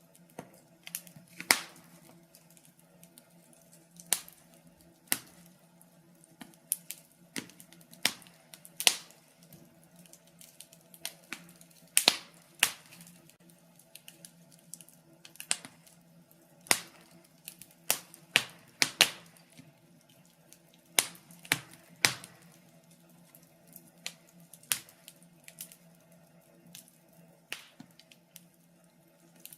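Wood fire in a fireplace crackling: irregular sharp pops and snaps from the burning logs, some loud, over a faint steady low hum.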